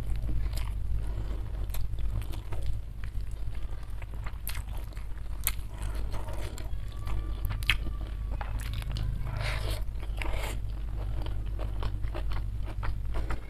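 A person chewing food close to the microphone while eating with the fingers: wet mouth sounds and many short sharp clicks over a steady low hum.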